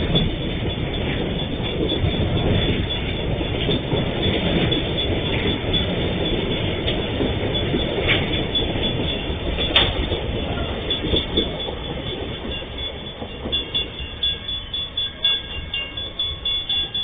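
Freight train of empty flat wagons rolling past at steady speed, the wheels rumbling and clattering on the rails, with two sharp clanks about a second and a half apart near the middle. The rumble fades in the last few seconds as the end of the train passes.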